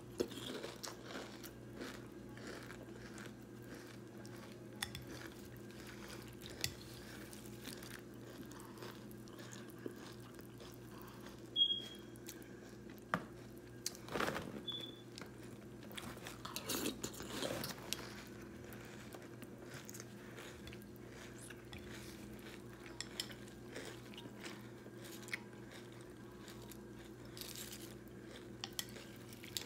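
Close-up chewing and crunching of a mouthful of Kellogg's Frosted Flakes corn-flake cereal with milk: irregular soft crunches throughout. A couple of short metallic spoon clinks come near the middle.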